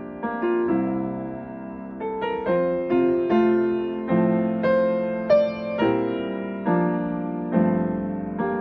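Solo piano playing a slow hymn accompaniment with no singing, chords struck about every half second to a second and left to ring.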